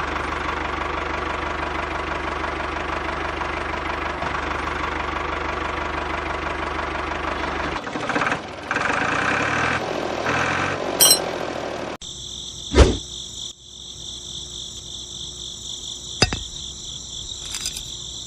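A small diesel engine running steadily, its sound shifting and wavering in pitch after about eight seconds. About twelve seconds in it cuts off abruptly and is replaced by a steady high-pitched insect chirring with a few sharp clicks.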